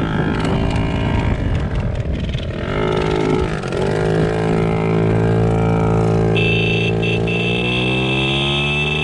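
Small mini bike engine revving up and down unevenly, then pulling steadily with its pitch slowly climbing as it picks up speed. A steady high whine joins about six seconds in.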